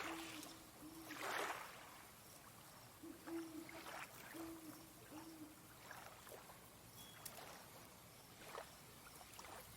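Owl hooting faintly in the distance: short low hoots, a couple near the start and a group of three or four about three to five seconds in. Soft swishes of water lapping come and go under it.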